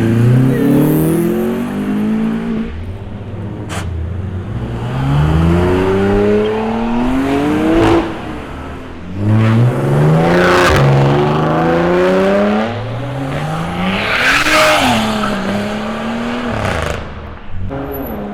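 A car's engine revving hard under a full-throttle pull, its pitch climbing steeply and dropping back about six times. Near the end there is a short burst of noise that may be tyre squeal.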